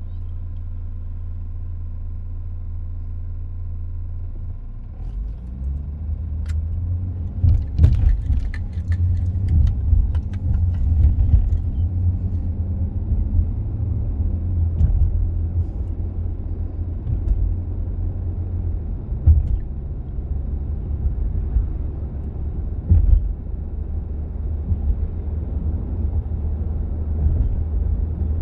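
Car cabin noise while driving: low engine and road rumble with the air-conditioning fan running on its lowest setting. Steady at first, it turns rougher and louder after about five seconds, with a few knocks along the way.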